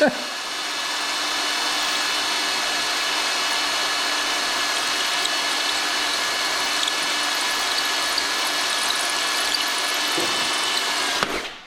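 Power drill running steadily at constant speed, boring through a broken bolt in the engine, then stopping abruptly near the end as it breaks through.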